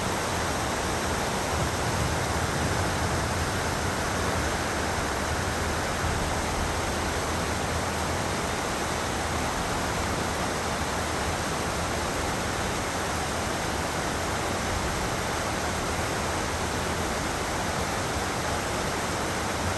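Steady rush of river water flowing, an even noise at constant level with no breaks.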